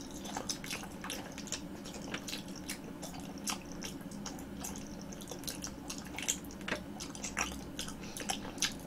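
Close-miked chewing of a green grape jelly ball: irregular small wet clicks, several a second, as the chewy jelly breaks apart in the mouth.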